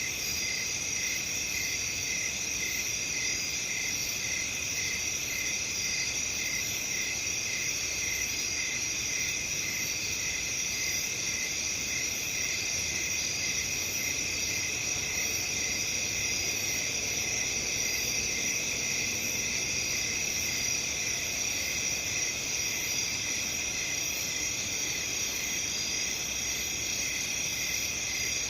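A dense night chorus of crickets and other insects: steady, overlapping trills at several pitches, one of them a regular pulsing chirp, holding constant throughout.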